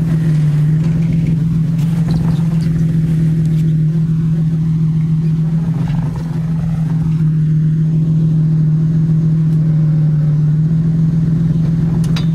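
Jeep Liberty KJ's engine running steadily as the Jeep creeps over a rocky trail, holding one even pitch throughout.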